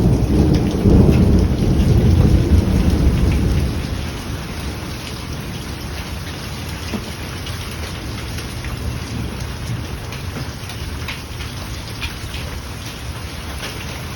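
A loud, low rumble of thunder breaks out suddenly and fades after about four seconds, over heavy rain pouring down steadily for the rest of the time.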